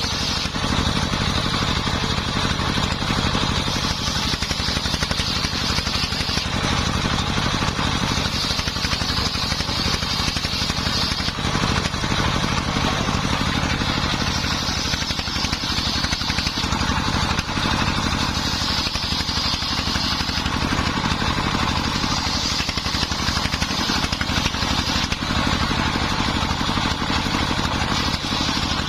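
Dongfeng 24 hp single-cylinder diesel running steadily, driving a homemade circular saw through timber. A higher cutting noise swells and eases every few seconds as the blade works through the wood.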